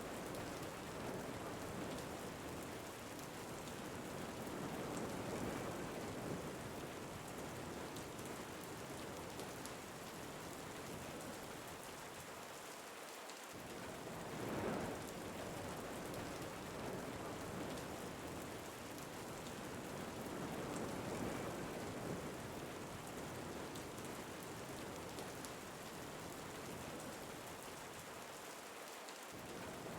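Steady rain ambience: a continuous rain hiss that swells gently about every fifteen seconds.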